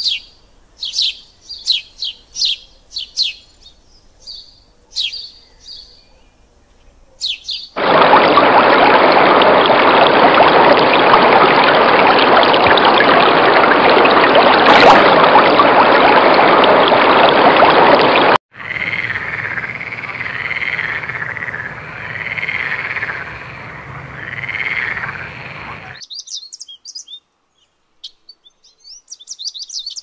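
Small birds chirping in quick short notes. About eight seconds in, they are cut off by roughly ten seconds of loud, even rushing noise. That gives way to a repeated rising-and-falling call about once a second, and chirping returns near the end.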